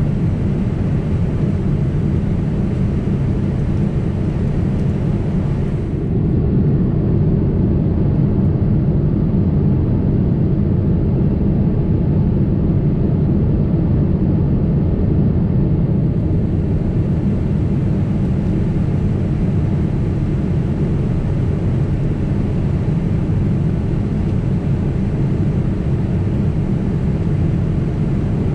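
Steady low rumble of a Boeing 767 airliner in flight, heard inside the cabin: engine and airflow noise, unbroken and even.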